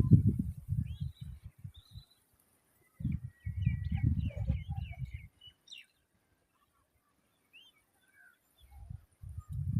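Babblers giving short, scattered chirps and quick rising call notes. Loud low rumbling bursts come and go under them, stopping for a few seconds in the middle and returning near the end.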